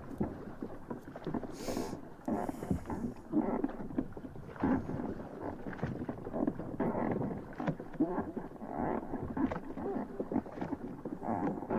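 Water splashing and slapping against the hull of a small sailing proa under way, with irregular knocks and a brief hiss of spray about two seconds in.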